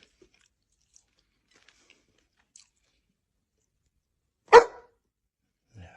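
A dog barks once, short and loud, about four and a half seconds in. Before it there are faint scattered clicks and crunches of teeth on a toy.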